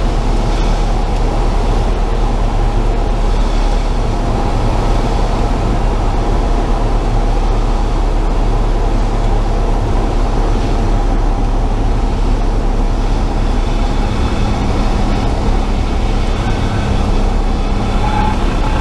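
Steady drone of a Cessna 172's piston engine and the rush of air, as heard inside the cockpit, with a low hum running under it.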